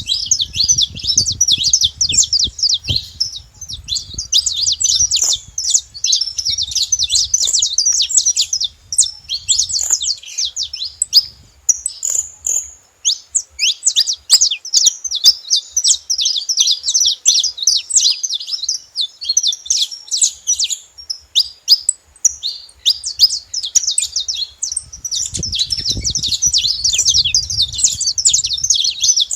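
Saffron finch singing: a fast, almost unbroken stream of high chirps and trills, with a brief pause about twelve seconds in.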